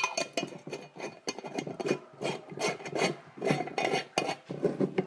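Rhythmic rasping, rubbing strokes, about two to three a second.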